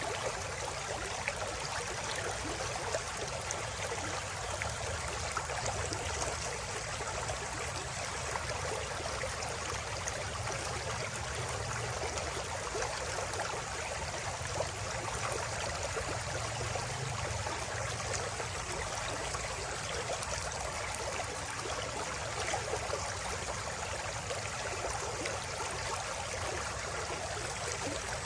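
River water flowing over rocks: a steady, even babbling and rushing.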